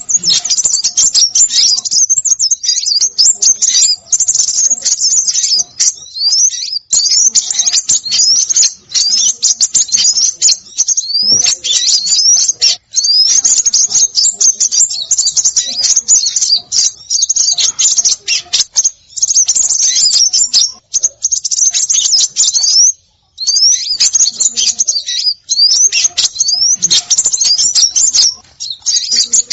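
A dense chorus of small songbirds chirping busily, a bird-lure recording of many high-pitched, quick rising notes overlapping almost without pause, broken by brief gaps twice.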